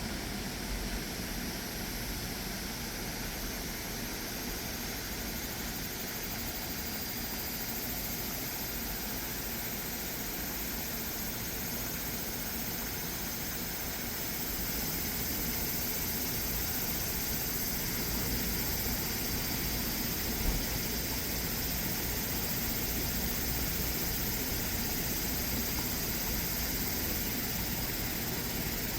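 Steady rushing of a mountain stream's flowing water, with a steady high-pitched hiss over it and a single brief knock about twenty seconds in.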